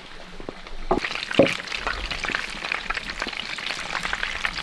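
Shelled peanuts roasting in a hot pan and being stirred: a dense, steady crackle with a few knocks of the utensil against the pan, the crackle picking up about a second in.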